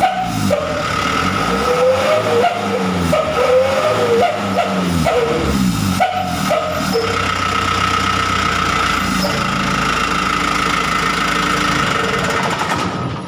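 Hino Dutro truck's diesel engine running through a 'wolf' (srigala) aftermarket exhaust. It is revved in repeated rising-and-falling blips for about the first six seconds, then held at a steady note. A steady high tone runs over the engine sound.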